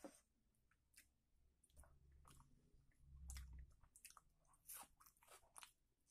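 Faint close-miked chewing and wet mouth sounds from eating curry and rice by hand, with scattered soft crunches and clicks. A low dull rumble comes in about two seconds in and fades out after another second and a half.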